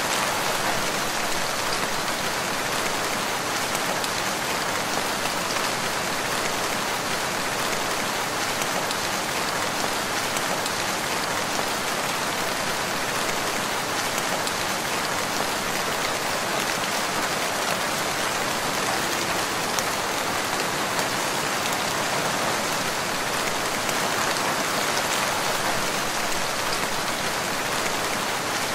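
Steady rain falling, an even, unbroken hiss of many drops that neither builds nor fades.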